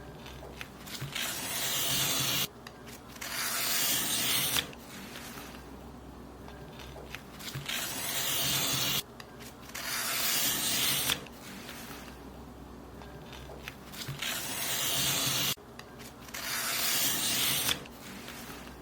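Paper being cut in long strokes: about six hissing cuts, each a second or two long, growing louder and then stopping abruptly, mostly in pairs with short pauses between.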